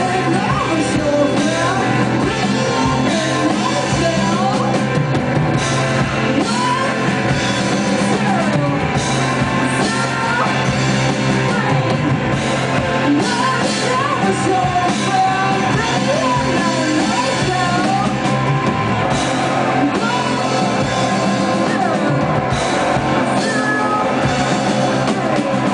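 Live rock band playing with drums, guitar and a singing voice.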